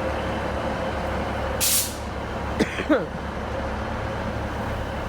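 Steady rumble of trains standing at a railway station, with a short, sharp burst of compressed-air hiss from a train's air brake system a little over a second and a half in.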